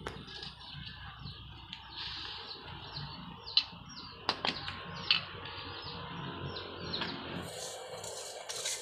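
Small birds chirping over and over in short falling notes, with a few sharp metal clinks about halfway through as the smith works at the anvil and vise. A low hum underneath stops near the end.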